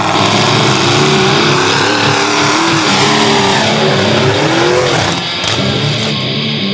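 Mud truck engine revving hard, its pitch rising and falling several times over a dense, noisy roar.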